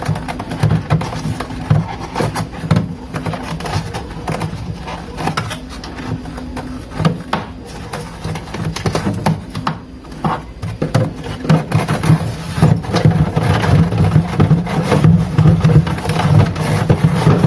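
Hands handling the refrigerator's plastic interior parts and wiring: a run of clicks, knocks and rustles over a steady low hum.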